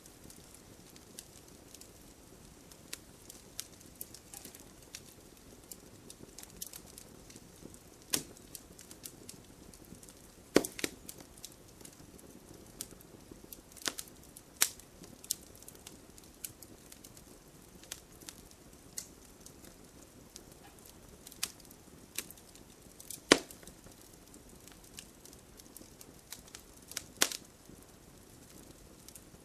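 Campfire burning, with irregular sharp crackles and pops of burning wood over a low, steady hiss; a few pops stand out louder, notably near the middle and about two-thirds of the way in.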